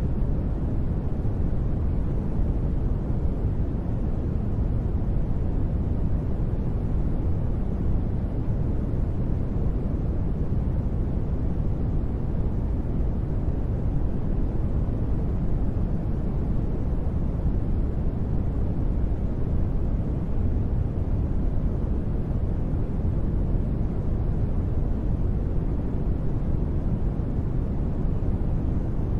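Continuous sleep-aid white noise, steady and unbroken, deep and dull rather than hissy.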